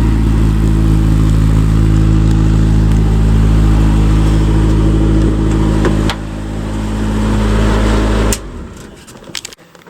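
Honda S2000 race car's four-cylinder engine running at a steady speed. It drops in level about six seconds in, then cuts off suddenly as it is switched off.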